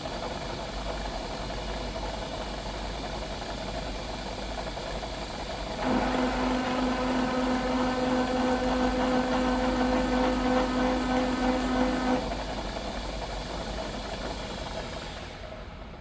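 Milling machine spindle running steadily. About six seconds in, a steady whine with overtones rises over it for some six seconds while the chamfering tool cuts the edge of the steel eye bore. Near the end the sound dies away as the machine winds down.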